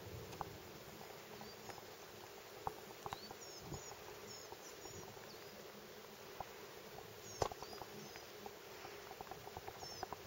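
Faint, high, thin chirps from small forest birds, a few short calls at a time, over soft background hiss with scattered light ticks. A single sharp click about seven seconds in is the loudest sound.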